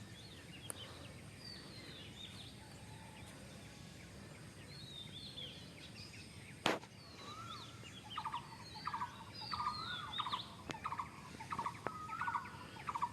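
Birds chirping: faint, thin high twittering notes, then a louder call repeated again and again as a series of short notes through the second half. A single sharp click about halfway.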